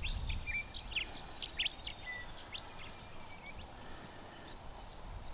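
Small birds chirping: a quick scatter of short, high chirps and calls that thins out after the first few seconds, over a faint low rumble.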